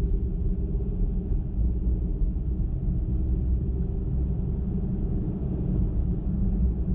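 Car driving along a highway: a steady low rumble of tyres on the road and the engine.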